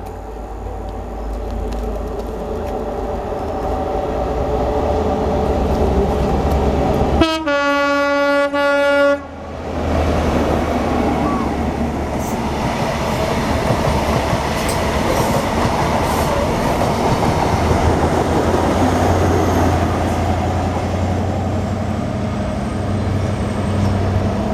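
A train approaching and passing, growing louder, with one steady horn blast of about two seconds partway through. The horn cuts off sharply and is followed by the loud, even rumble of the train going by.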